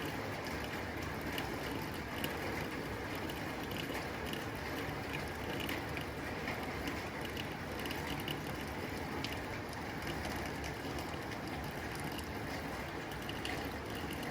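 Rain falling steadily on a tin roof: a constant wash of noise full of small sharp ticks of drops striking the metal.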